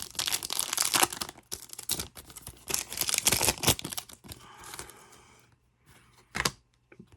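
Trading card pack wrappers crinkling and tearing as packs are ripped open and handled, in quick irregular bursts that die down about four seconds in, followed by a few faint clicks.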